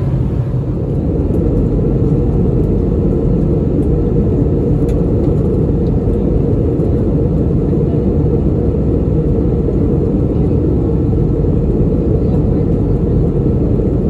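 Steady cabin roar inside an Airbus A320neo in its climb: engine and airflow noise, heavy in the low end and unchanging throughout.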